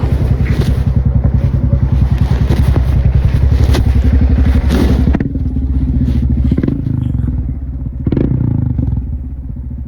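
Royal Enfield Himalayan single-cylinder motorcycle engine running under steady throttle while riding, with an even pulsing exhaust note. About five seconds in the throttle is closed and the note drops to a quieter, lower run, with a few short knocks.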